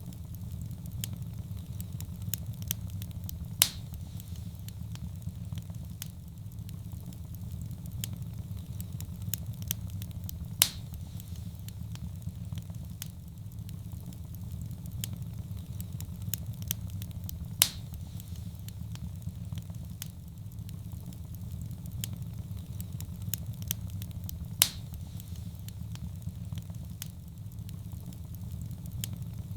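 Wood fire crackling in a fireplace: a steady low sound of the flames under constant small crackles, with four louder pops about seven seconds apart.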